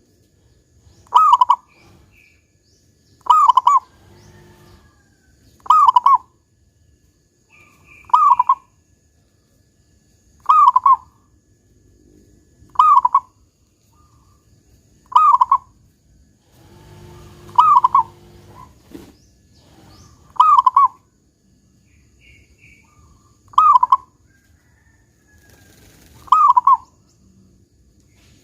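Zebra dove (perkutut) cooing its short song over and over, about once every two and a half seconds, each phrase ending on the deep 'kung' note that keepers prize. Faint chirps from other small birds come between the phrases.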